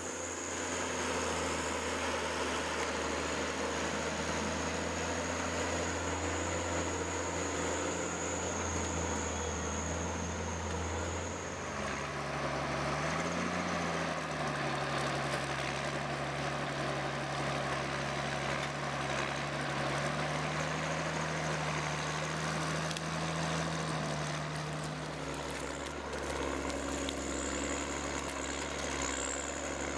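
Engine-driven machinery running steadily, with a low hum and a thin high whine; the pitch and mix shift abruptly about twelve seconds in and again near the end.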